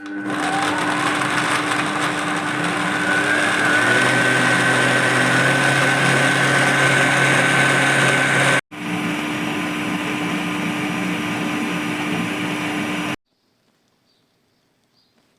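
Electric blender running, mixing strawberries and milk into a smoothie: the motor spins up with a rising whine at the start, then runs steadily. It cuts out for a split second about two-thirds through, runs again, and stops near the end.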